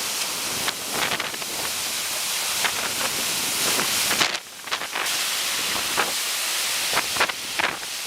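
Typhoon-force wind rushing hard against the microphone, a steady loud hiss with sudden gusts; it drops off briefly about four seconds in, then picks up again.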